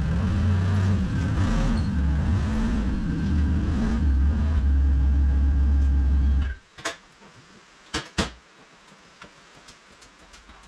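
Motor vehicle engine running steadily, then switched off about six and a half seconds in, followed by three sharp clicks or knocks.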